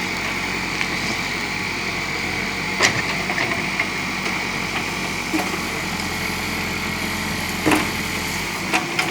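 JCB backhoe loader's diesel engine running steadily, with a few sharp knocks, one about three seconds in and a couple near the end.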